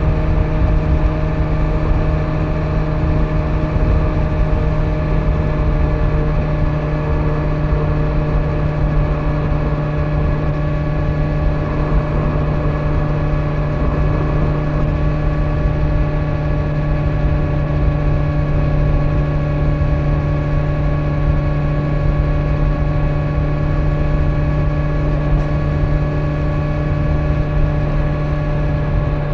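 2025 Kawasaki Z900's inline-four engine through its stock exhaust, running at a steady cruising speed with an even, unchanging pitch, over wind and road noise.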